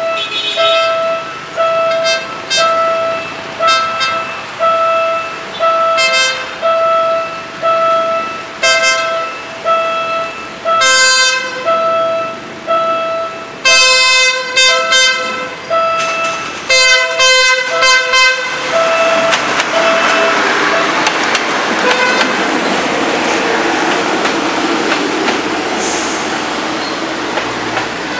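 Level-crossing warning alarm beeping about once a second while a PNR diesel multiple unit approaches and sounds its horn in a series of blasts, the longest about halfway through. From about two-thirds of the way in, the train passes close by in a steady rumble of engine and wheels on rail, and the alarm stops soon after.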